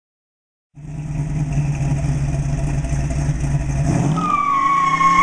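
1973 Ford Mustang Mach 1's 351 Cleveland V8 cutting in suddenly under a second in, running hard, then revving up about four seconds in as the rear tires break loose into a burnout with a steady, high-pitched tire squeal.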